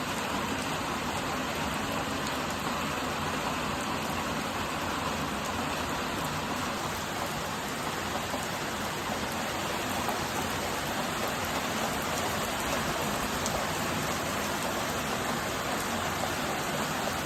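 Heavy rain falling and pattering on surfaces, a steady, even hiss with no letup.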